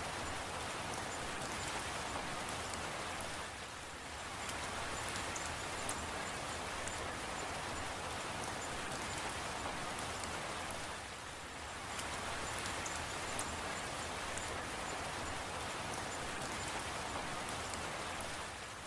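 Steady rain falling, with sharp ticks of individual drops striking a surface. The sound eases briefly twice, about four seconds in and again around eleven seconds.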